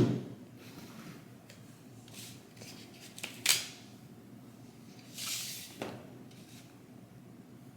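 Small objects being handled on a table: a few light clicks and taps, and a brief rustle about five seconds in.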